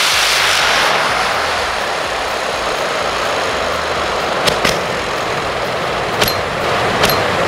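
Small rocket motors burning on a spinning aluminium fidget spinner: a loud, steady rushing hiss that slowly dulls, with four sharp cracks in the second half.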